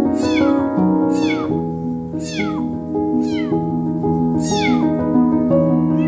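Kitten meowing over and over, about once a second, each meow high and falling in pitch, the crying of a hungry kitten. Background music with held notes plays under it.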